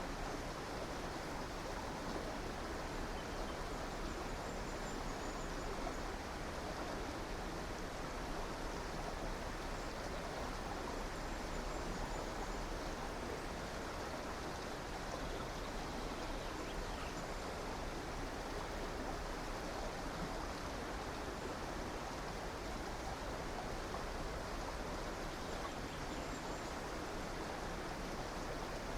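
Steady rush of a flowing river or stream, even and unbroken, with a few faint, high bird chirps now and then.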